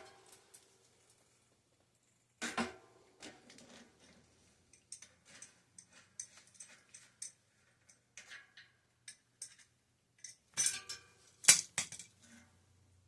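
Small metal parts clinking and clanking as a bicycle cassette's cogs and spacers are handled: a sharp clank at the start, another about two and a half seconds in, light scattered clicks between, and a cluster of louder clanks near the end.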